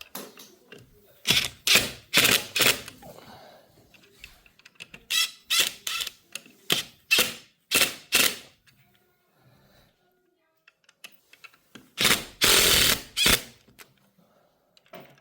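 Power tool run in short trigger bursts: about a dozen quick pulls in two clusters, then one longer run of about a second and a half near the end.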